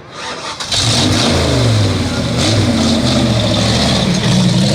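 A sport truck race engine comes in loud about a second in, then revs up and down.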